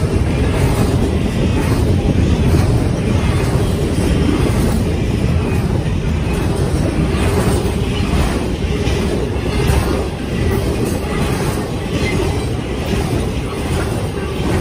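Intermodal freight cars (double-stack container well cars and trailer flatcars) rolling past: a steady rumble of steel wheels on rail, with scattered clicks as the wheels cross rail joints.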